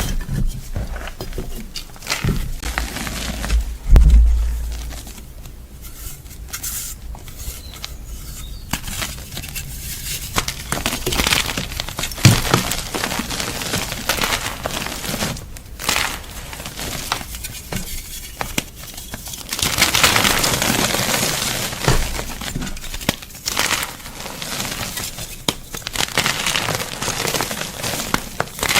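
Gym chalk being crunched and crumbled: dense, irregular crackling with sharp snaps, growing denser and louder for a couple of seconds about two-thirds of the way through.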